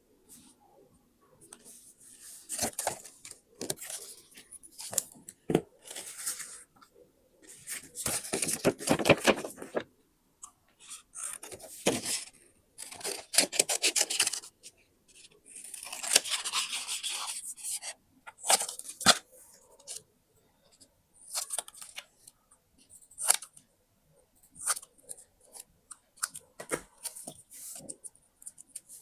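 Paper handled in a series of separate bursts: tearing with a fine crackle, a longer stretch of rubbing, and short sharp snips and taps in between.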